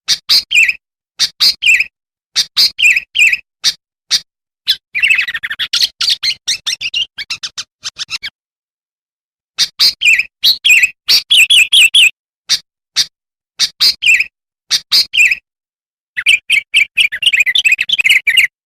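Sooty-headed bulbul (kutilang) singing: loud, short chirping notes in quick phrases, with two spells of fast, dense chattering, one about five seconds in and one near the end, and a short pause midway.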